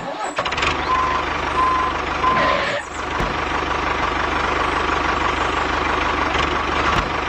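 Engine running steadily, with three short evenly pitched beeps like a reversing alarm between about one and two and a half seconds in, and a brief break in the sound just before three seconds.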